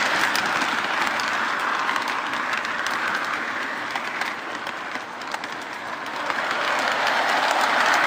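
O gauge model train running along its track, heard from a car of the train itself: a steady rushing rattle of wheels on rail that eases off around the middle and builds again near the end.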